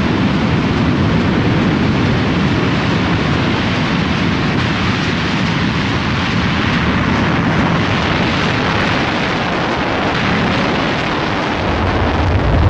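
Panavia Tornado GR1 jets taking off, their twin RB199 turbofans giving a loud, steady jet roar that deepens into a heavier low rumble near the end.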